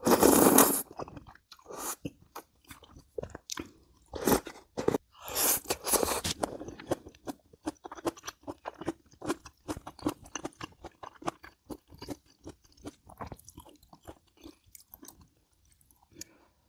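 Biting into and chewing crunchy fried skewer food. There are a few loud crunching bites in the first six seconds, then rapid steady chewing that fades out shortly before the end.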